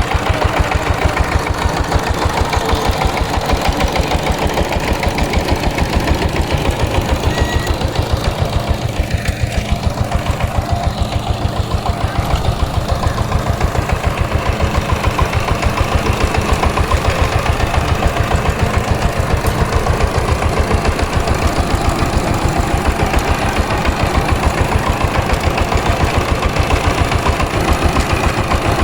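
A power tiller's single-cylinder diesel engine running steadily at idle, with a fast, even chugging.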